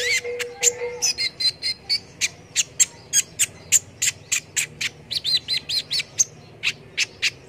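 Konin (kolibri ninja), a sunbird, singing a fast run of sharp, high chirps, about three to four a second. Quick looping warbled phrases come in about a second in and again around five seconds.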